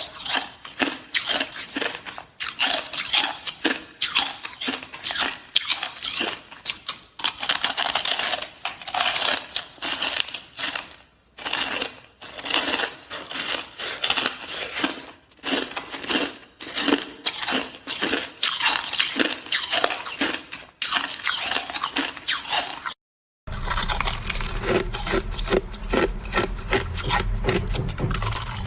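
Close-up crunching and chewing of hard shaved ice, a fast irregular run of crisp crunches. The sound cuts out briefly a little before 23 s, then the crunching goes on with a low hum underneath.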